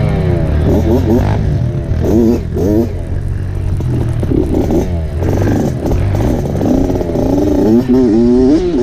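Dirt bike engine revving up and down as the throttle is worked on a trail, its pitch rising and falling again and again, over a steady low rumble and some clatter.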